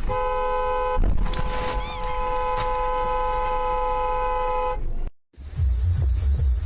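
Vehicle horn held in one long, steady blast for about five seconds, over rumbling vehicle noise that gets louder about a second in. The horn cuts off abruptly, and after a brief gap a low, even pulsing begins.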